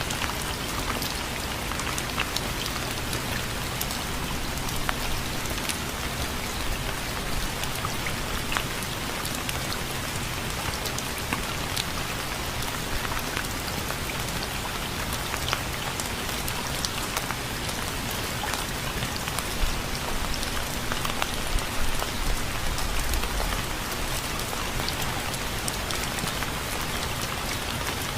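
Steady rain falling, with many individual drops pattering sharply on a hard surface.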